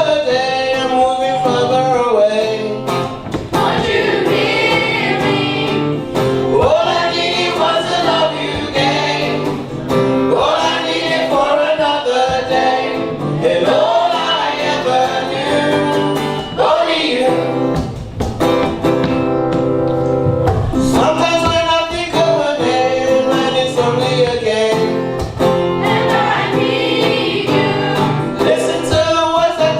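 School choir singing, many voices together holding and moving between sustained sung notes.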